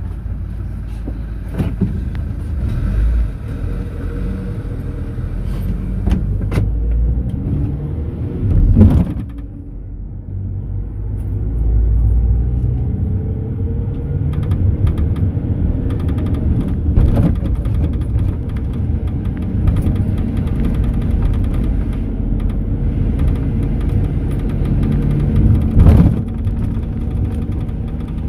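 Mercedes-Benz Sprinter minibus heard from inside while driving: steady engine and road rumble with rattles, and two loud thumps from bumps, about nine seconds in and near the end. Briefly quieter around ten seconds, then the engine note rises as the bus picks up speed.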